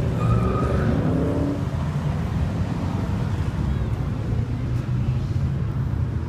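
Car engines rumbling in traffic, a steady low drone, with faint voices in the first second or so.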